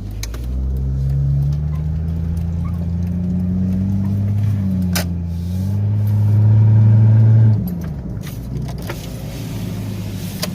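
Jeep Grand Cherokee ZJ's 4.0 straight-six droning through a freshly installed muffler, heard inside the cabin with the windows up. The engine note climbs as it pulls, dips briefly in the middle, grows louder, then drops off suddenly as the throttle is released about seven and a half seconds in.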